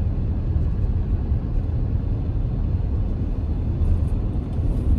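Steady low rumble of a car on the move: road and engine noise with no distinct events.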